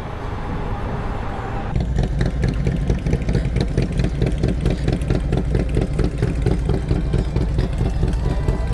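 A rushing noise for the first couple of seconds, then suddenly a motorcycle engine idling close by with a steady, even pulse.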